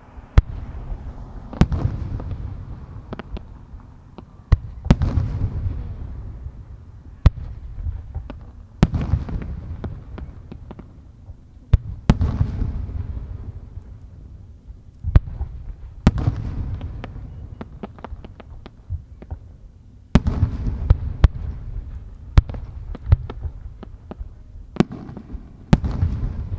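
Aerial firework shells bursting one after another at irregular intervals, each a sharp bang followed by a long, low rolling echo, with smaller pops in between.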